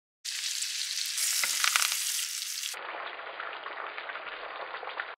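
Food frying in a hot pan, a dense sizzling crackle, in two clips cut together a little past halfway. The second clip is steaks frying in foaming butter. The first clip carries a few sharp clicks near its middle.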